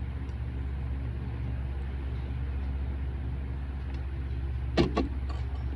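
Electric fan running with a steady low hum. Two sharp knocks, a fraction of a second apart, near the end.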